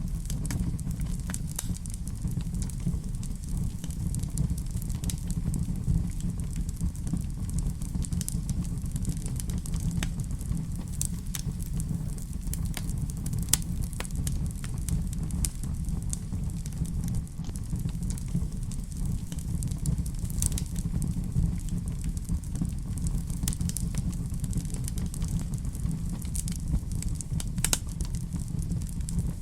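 Wood fire in a fireplace crackling: a steady low rumble of flames with frequent sharp, irregular pops and snaps.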